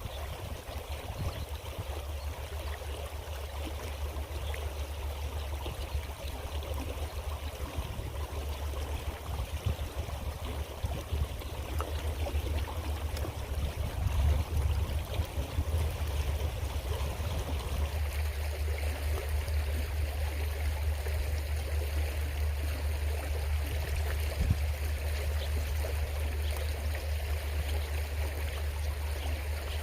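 Water of a small creek flowing steadily over rocks, an even rushing and trickling, with a steady low rumble underneath.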